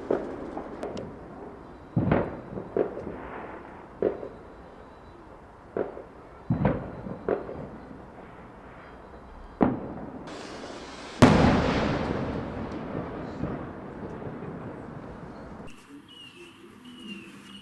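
Fireworks going off in a series of sharp bangs at irregular gaps, each trailing off in an echo. The loudest comes about two thirds of the way in, preceded by a rising hiss. Near the end the bangs give way to a quieter stretch with a high warbling chirp.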